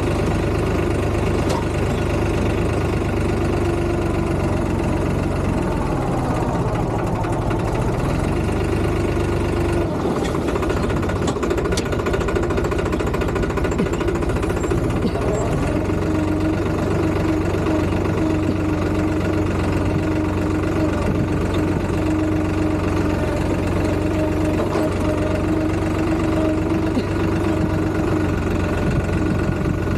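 Tractor engine running steadily, its note changing about a third of the way in and settling on a new steady pitch about halfway.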